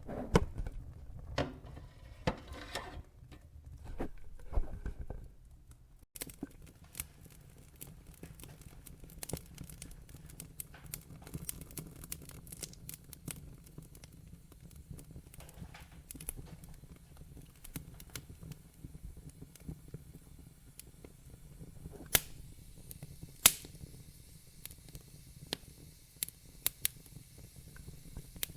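Wood fire crackling in a fireplace: irregular snaps and pops over a low rumble, with two sharp, louder pops a little past two-thirds of the way in. The background drops abruptly about six seconds in.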